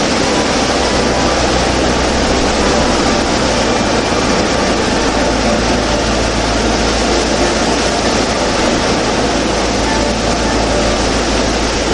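Loud, steady rushing noise with a low hum underneath, unchanging throughout.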